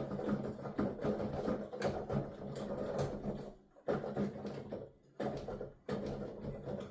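Keys of a digital piano played with the sound going only to headphones: a fast, busy clatter of key thuds and clacks from the keyboard action, with no piano tone, and a couple of short pauses in the middle.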